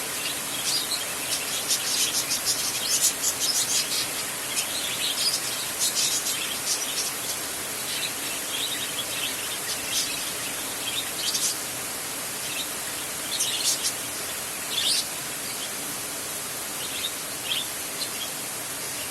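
Steady rain hiss with birds chirping over it: quick high chirps and trills come thickly in the first several seconds and again in bursts around the middle.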